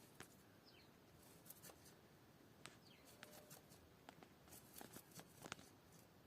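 Near silence, with faint scattered clicks and taps and a couple of faint short high chirps that fall in pitch.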